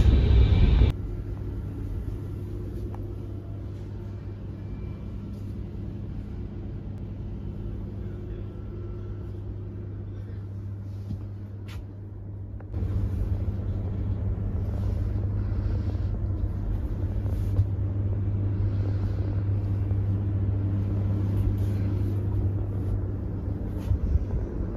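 Steady low rumble and hum inside a bullet-train sleeper carriage, quieter through the first half and louder again from about thirteen seconds in.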